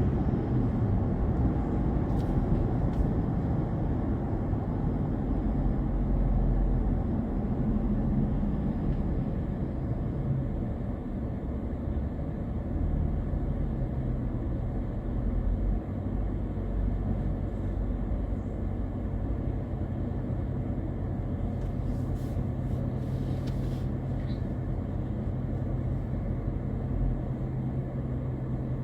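A car on the move: a steady low rumble of engine and road noise, with a few faint ticks late on.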